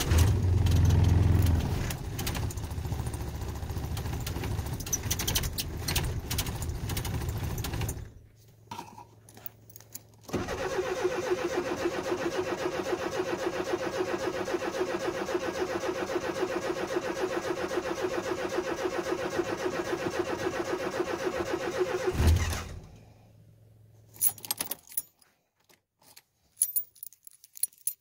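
Cold start of a vehicle engine. It catches with a loud low burst, runs for about six seconds and stops. After a short pause the starter cranks steadily and rhythmically for about twelve seconds, the engine fires briefly near the end and cuts off, and faint jingling of keys follows.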